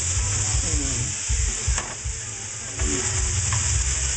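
Seasoned chicken sizzling in hot oil in a frying pan: a steady frying hiss, with a couple of sharp clicks.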